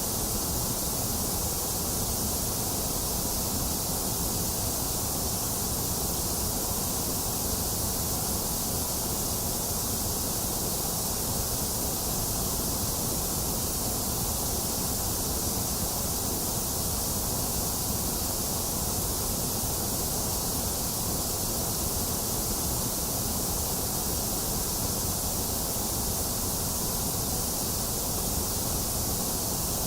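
Box fan running steadily, blended with steady rain: an even, unchanging rush with a low hum-like roar and a bright hiss on top.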